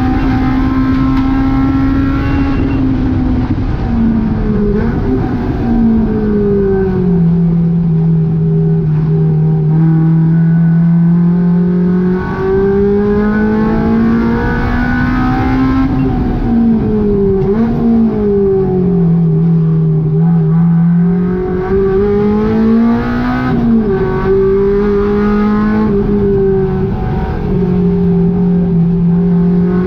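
Honda K20 inline-four in a K20-swapped GTI running hard at high revs. Its pitch climbs steadily as it accelerates, then falls sharply for gear changes and braking, several times over, with quick dips and blips in between.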